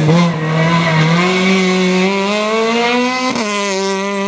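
World Rally Car's turbocharged four-cylinder engine accelerating hard on a rally stage: the engine note climbs steadily, then drops sharply at an upshift about three seconds in and pulls on in the next gear.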